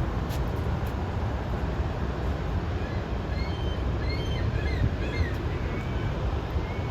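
Steady low rushing roar of Montmorency Falls, the large waterfall nearby. About halfway through, a run of short high chirps sounds over it.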